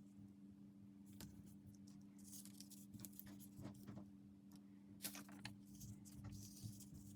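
Faint handling of paper and tape: scattered small clicks and two brief rustles over a steady low hum.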